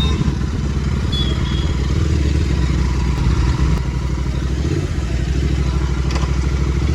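Royal Enfield Continental GT 650's parallel-twin engine running steadily with a fast, even exhaust pulse, getting a little louder near the end.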